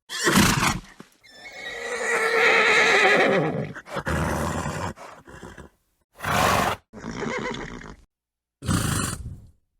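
A horse snorts, then gives one long wavering neigh of about two and a half seconds that falls away at the end. It follows with a few short snorts separated by gaps of silence.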